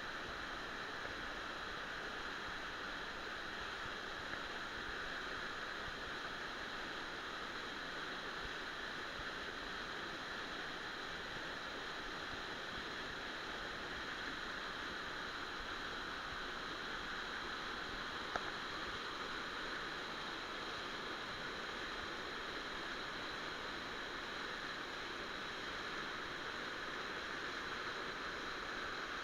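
Waterfall: a steady, even rush of falling water, with one brief click about eighteen seconds in.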